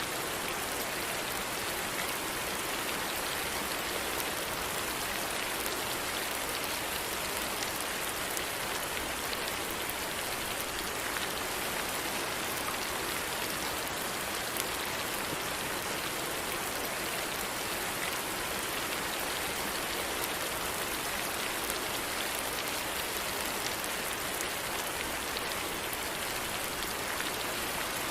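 Steady rainfall: an even hiss of rain with faint ticks of single drops scattered through it.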